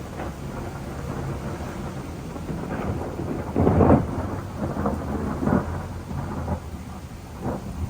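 Thunder rolling in a low, continuous rumble that swells to its loudest crack about halfway through, with smaller surges after it.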